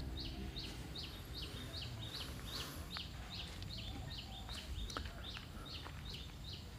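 A bird repeating a short, high chirp over and over, very evenly, about three times a second, over faint outdoor background noise.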